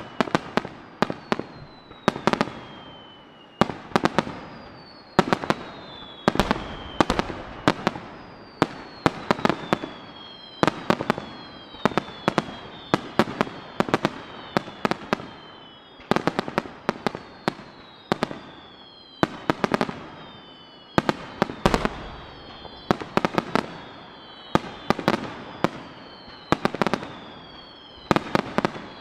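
Starmine aerial fireworks fired in rapid succession: shells bursting in clusters of sharp bangs every second or two, with falling whistles between them.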